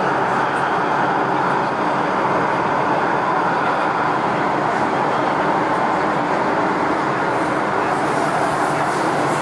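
MTR M-train electric metro train running at steady speed, a continuous even rumble of wheels on rail and running gear.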